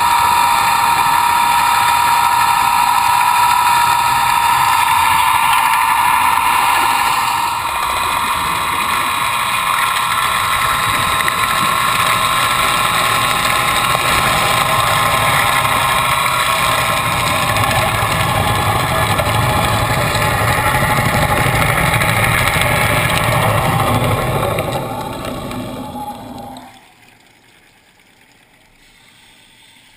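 LP Stingray in-situ net washer running underwater, its spinning rotor giving a steady mechanical hum with a high whine as it strips mussels and barnacles from a predator net. The whine dips slightly about a quarter of the way in, and the whole sound fades away over a couple of seconds near the end, leaving faint water sounds.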